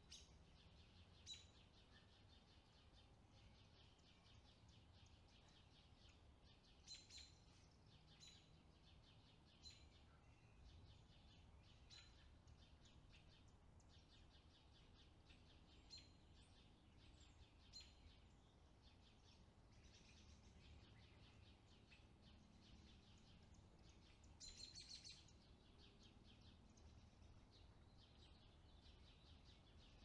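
Faint birdsong: short high chirps every couple of seconds, with a quick burst of several chirps about 25 seconds in, over a soft steady high hiss.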